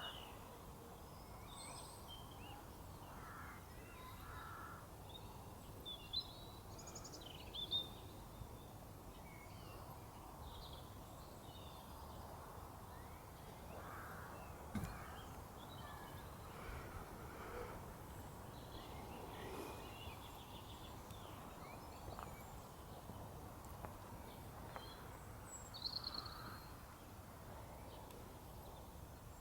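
Faint outdoor ambience of several birds calling, with scattered short chirps and a few louder calls over a steady low background hiss and rumble.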